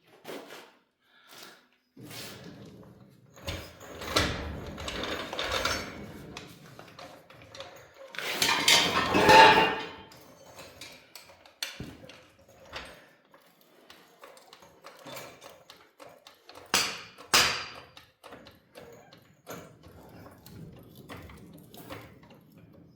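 Intermittent metal clanks, knocks and rattles of an engine and transmission being jacked up and settled into a truck chassis, with a longer clattering stretch near the middle and two sharp knocks later on.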